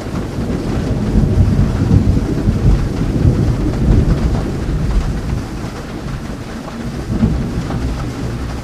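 Thunder rumbling over steady rain: a long low roll swells about a second in and slowly dies away over the next several seconds.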